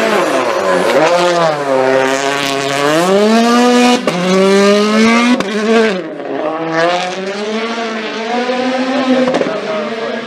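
A rally car's turbocharged four-cylinder engine at full throttle on gravel. The revs dip about a second in, then climb through the gears to a peak, cut off sharply at about six seconds and build again.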